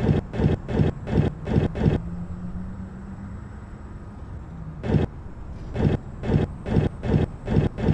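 Girbau HS4012 commercial washing machine on a wash cycle: wet laundry thudding in the turning drum about three times a second. The thuds stop for about three seconds, leaving a low motor hum while the drum pauses between turns, then start again with a single thud before the rhythm returns.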